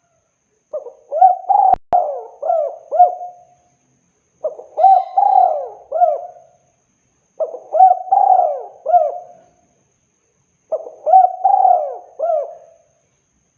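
Spotted dove cooing in four phrases about three seconds apart, each a quick run of several rising-and-falling coo notes. A single sharp click sounds about two seconds in.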